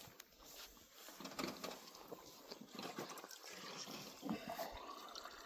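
Water trickling as it is poured into the one-way valve of a Lorentz solar bore pump, a test of whether the valve seal holds, with a few light clicks of handling.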